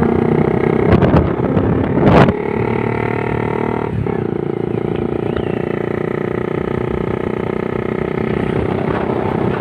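Motorcycle engine running steadily under way, with a couple of knocks or clatters about one and two seconds in.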